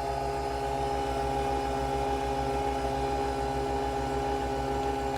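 Nespresso coffee machine brewing, spinning the capsule to extract the coffee: a steady whirring hum with a rapid low pulsing under it.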